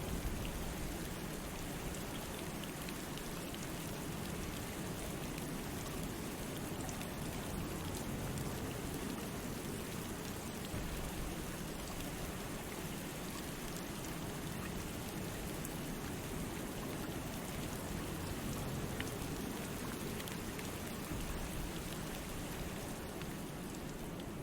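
Steady rain falling on a lake, an even hiss with scattered drop ticks.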